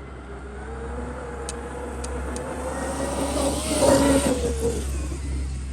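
Traxxas XRT RC truck's brushless electric motor whining as the truck accelerates, the pitch climbing steadily. It is loudest about four seconds in, with a burst of tyre and ground noise, then drops away.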